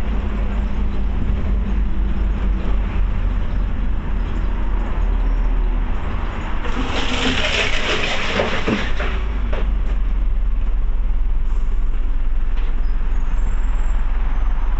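Scania OmniCity bus heard from on board, its diesel engine running with a steady low rumble. About seven seconds in comes a hiss of compressed air lasting a couple of seconds, and after it the engine grows a little louder.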